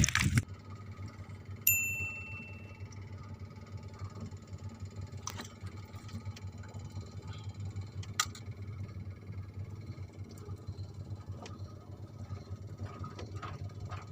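A single bright, bell-like ding about two seconds in that rings out for about a second, over a steady low hum with a few faint clicks.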